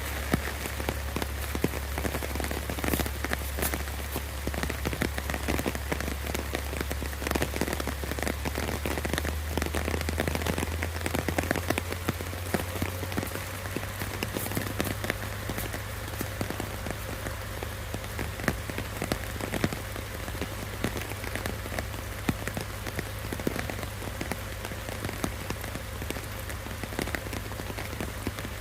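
Steady rain falling and pattering on surfaces, with many individual drops striking close by, over a steady low hum.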